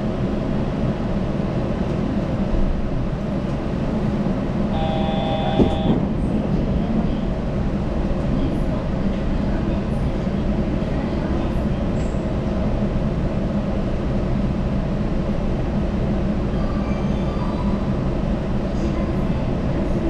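Yurikamome rubber-tyred automated train running, a steady rumble of tyres and running gear on the guideway. About five seconds in, a brief cluster of steady tones sounds over it, and near the end a faint whine steps up in pitch.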